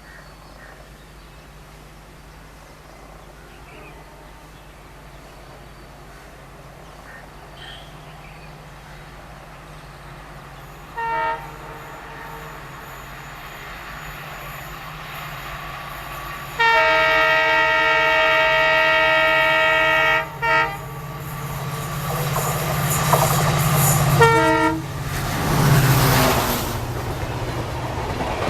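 Approaching train's locomotive horn: a short blast, then a long blast of about three and a half seconds, then two more short blasts. Under it a rumble that grows louder as the train nears and begins to pass, with wheels clattering near the end.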